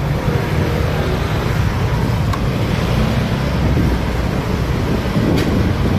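Motorcycle riding in traffic: steady engine and road rumble with wind on the microphone, and two brief faint clicks, one about two seconds in and one near the end.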